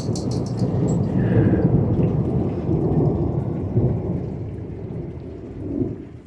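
Thunder rumbling long and low through heavy rain, swelling about a second in and slowly dying away near the end.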